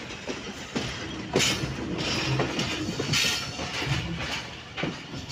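A moving express passenger train heard from the open doorway of one of its coaches: steady running noise of the wheels on the rails, louder from about a second and a half in, with a few sharp knocks as the wheels pass over rail joints.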